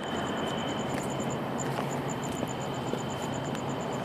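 Steady hum of running engines, with a steady high whine and a rapid high-pitched pulsing chirp, about eight pulses a second, over it.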